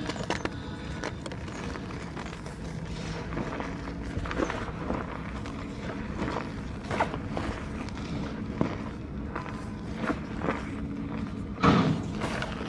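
Blocks of gym chalk being crushed, giving a series of separate crisp crunches at irregular intervals, the loudest near the end.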